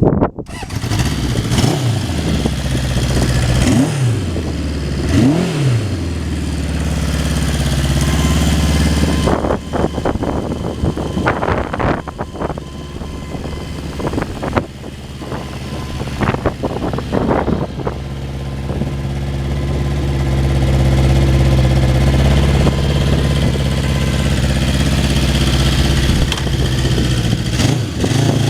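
Honda CB750's air-cooled inline-four engine running, revved up and down in several quick blips in the first few seconds. A choppy, uneven stretch follows in the middle, then the engine settles into a steady, louder run.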